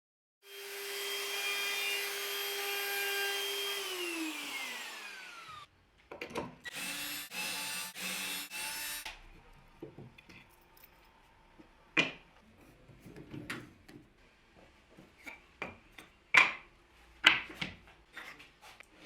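A power tool works wood, running at a steady pitch and then winding down with a falling pitch once it is switched off. A second, shorter run of tool noise follows in several pulses, then scattered knocks of wood pieces being handled.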